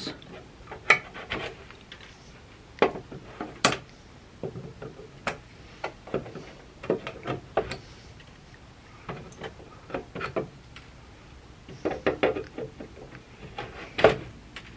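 Irregular clicks, taps and light scraping of hand work on a wooden board while staples are being moved, with a sharper knock every second or two.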